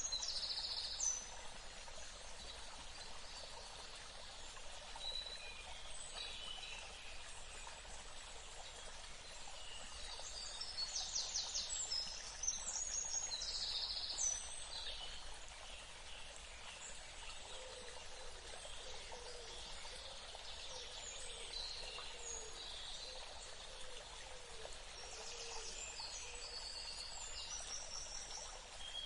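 Birds calling and chirping over a steady hiss of outdoor background ambience, with busier flurries of short high calls about ten seconds in and again near the end.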